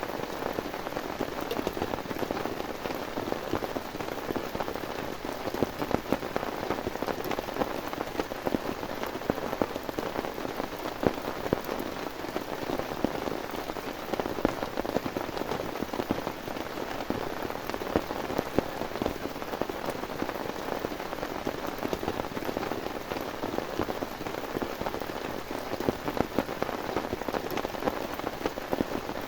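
Heavy rain falling steadily, with many individual drops ticking sharply on a surface.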